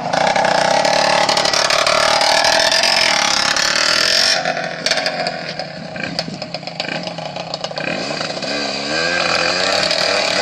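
Small motorcycle engine revving hard, its pitch climbing for about four seconds, then dropping back and wavering up and down near the end.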